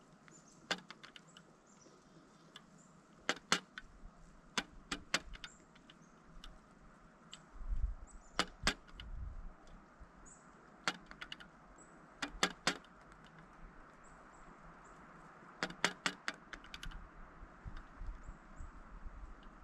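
Pileated woodpecker pecking at a suet feeder: sharp, irregular taps, often in quick pairs or threes, with a low thump about eight seconds in.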